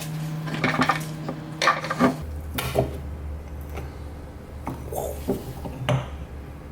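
Metal parts clinking and clanking against each other and a hard surface: several separate sharp knocks, spaced irregularly.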